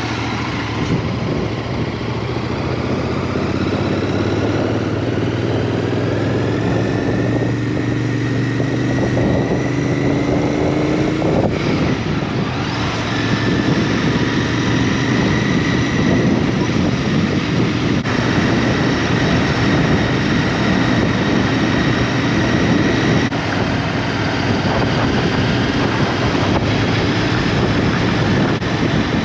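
Small motorcycle engine running under way, its pitch climbing steadily for about ten seconds, dropping briefly, then holding steady.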